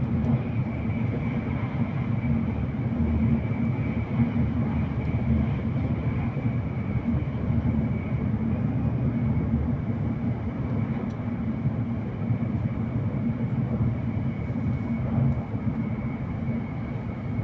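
Hokuriku Shinkansen running at speed, heard from inside the passenger cabin: a steady low rumble with a faint, steady high whine above it.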